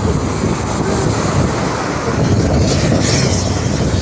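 Wind buffeting the microphone in a steady rumble, over the sound of sea waves on the shore.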